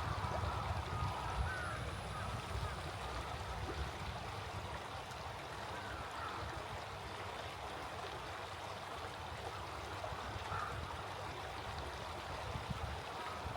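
A small stream flowing steadily, with a few faint, short bird calls scattered through it and a low rumble that is strongest in the first couple of seconds.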